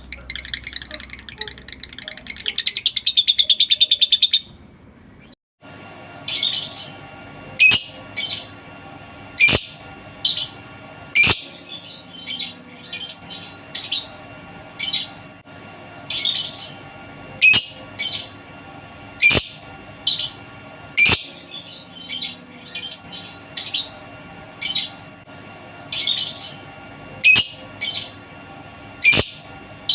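Lovebird calls: a fast, rattling run of chatter for about the first four seconds, then, after a brief break, a series of single sharp chirps about one every second or two.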